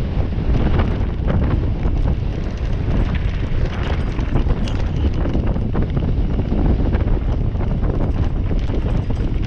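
Wind buffeting the microphone on a mountain bike ride over rough trail, with frequent knocks and rattles from the bike.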